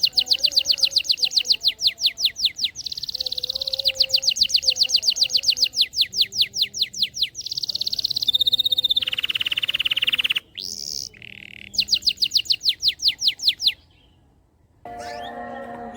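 Domestic canary singing loudly in rapid trills: fast runs of repeated downward-sweeping notes, about ten a second, broken by short held whistled notes between phrases. The song stops about two seconds before the end, and a different steady-toned sound starts just after.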